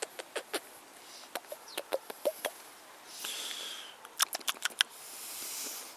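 A parrot's beak clicking and tapping at close range: a run of sharp clicks, with two soft hissing rushes, one about three seconds in and one near the end.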